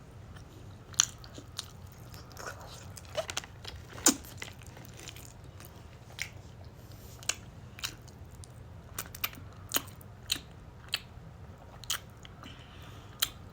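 A person biting and chewing crunchy fast food, with sharp irregular crunches about once a second, the loudest near the start and about four seconds in. A steady low hum sits underneath.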